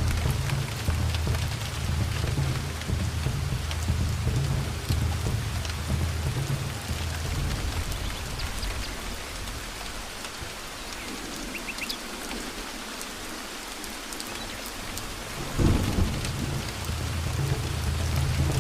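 Steady rain with rolling thunder. The low rumble dies away midway, then a fresh thunderclap breaks in sharply about three-quarters of the way through and rumbles on.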